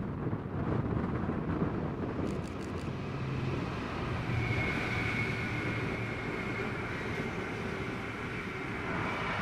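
A train running past on the line: a steady rumble of wheels on rail, with a high steady whine coming in about halfway through.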